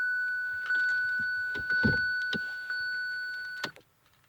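A 2017 Kia Sorento's dashboard warning chime sounding a steady high tone while the gear selector clicks into neutral, with a low thunk about two seconds in. The chime cuts off near the end, and there is no starter cranking or engine: the car won't start.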